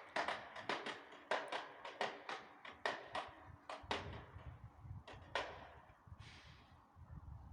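A distant church-tower matraca, a wooden clapper rattle, playing an irregular run of sharp, echoing wooden clacks, about two to four a second, that stops about five seconds in. A low rumble sits under the second half.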